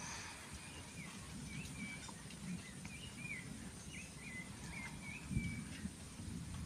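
Faint bird chirps, a run of short whistled notes, over a low steady rumble, with a brief low thump about five seconds in.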